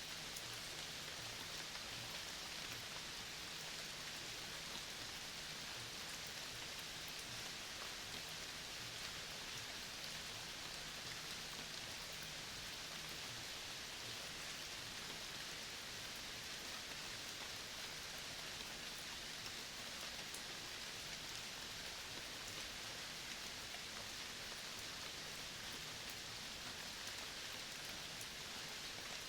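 Steady natural outdoor ambience: an even, unbroken hiss with faint scattered ticks, and a faint low hum that fades out about halfway through.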